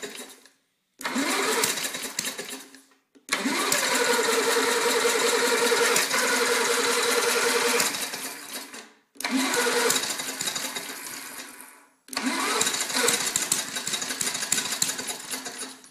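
Montgomery Ward lawnmower's small engine firing and running a few seconds at a time, then dying out, four times in a row. The longest run lasts about five seconds. It is a long-idle engine struggling to start, which the owners take for flooded.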